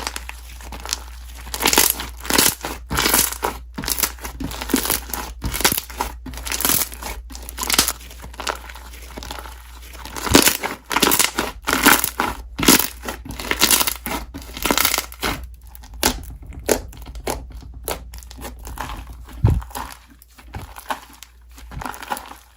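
Slime being squeezed, stretched and pressed by hand, giving an irregular run of sharp crackles, pops and squelches that eases off near the end.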